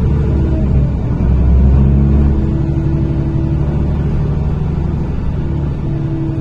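NefAZ-5299 city bus engine and drivetrain running under way, heard from inside the passenger cabin as a steady low rumble. The engine note shifts about a second in.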